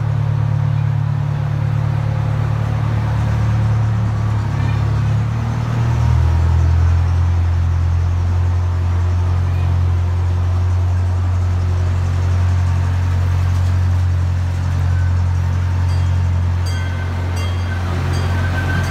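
Miniature zoo train running along its track, a steady low rumble heard from inside an open passenger car, partly within a tunnel. A few light clicks come in near the end.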